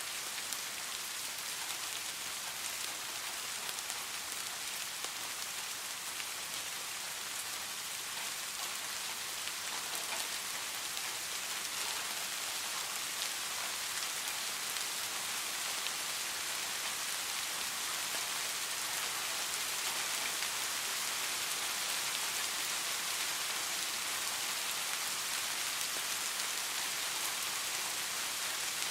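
Steady rain falling: an even, unbroken hiss with scattered pattering of individual drops, rising very slightly in level about two-thirds of the way through.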